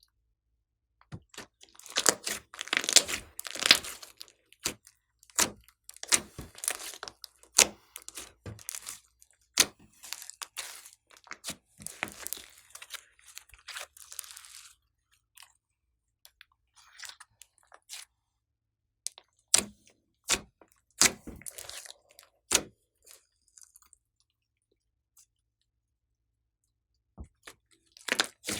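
Glossy slime being squeezed and kneaded by hand, giving irregular wet pops, clicks and crackles in clusters, with quiet pauses between about 15 and 19 seconds in and again near the end.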